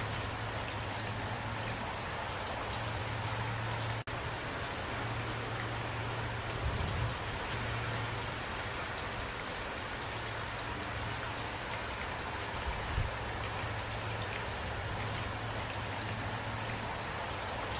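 Steady rain falling, an even hiss with individual drops. It cuts out for an instant about four seconds in, and there are two brief low thumps later.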